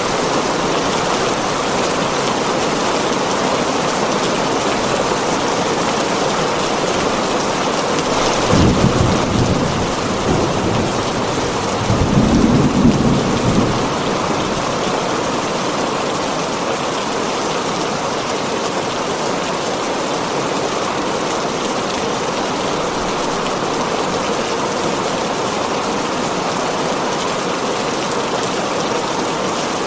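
Heavy rain falling steadily on a tin roof, with two low rumbles of thunder, one about eight to ten seconds in and another around twelve to thirteen seconds in.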